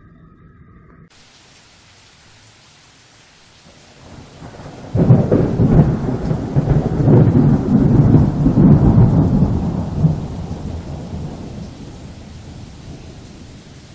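Steady rain hiss, with a long rumble of thunder that swells about five seconds in, stays loud for about five seconds, then rolls away gradually.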